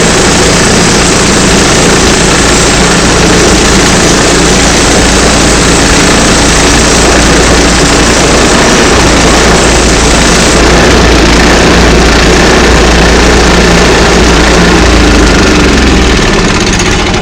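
Engine-driven saw running steadily while ripping a log lengthwise into a board; the sound falls away near the end as the cut finishes.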